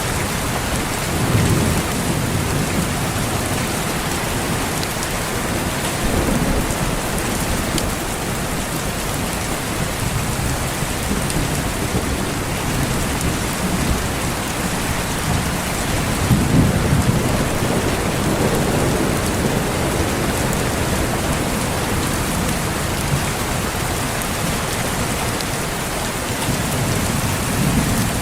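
Steady heavy rain hissing, with low rolls of distant thunder swelling several times, the strongest from about halfway through.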